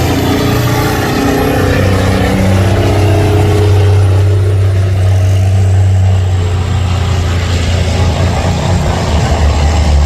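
A competition pulling truck's engine running loud and steady under heavy load, a deep unbroken drone with its pitch shifting a little in the first few seconds.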